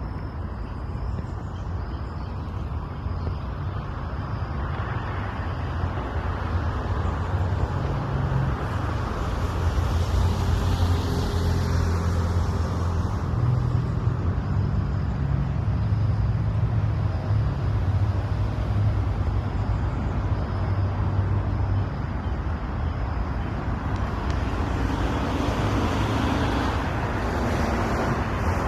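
Road traffic: a steady low rumble of passing vehicles that grows louder a few seconds in.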